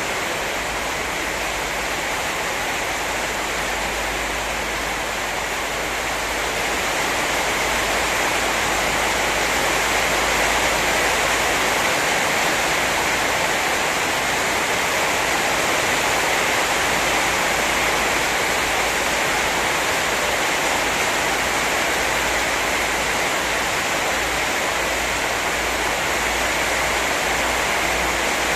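Heavy rain pouring down steadily, growing slightly louder several seconds in.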